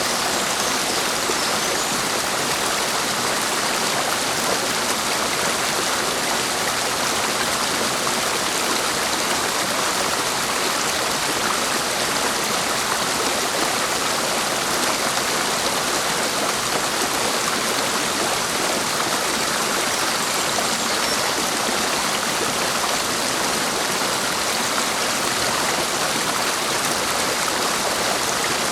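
Clear mountain stream rushing over rocks, a steady, even wash of flowing water.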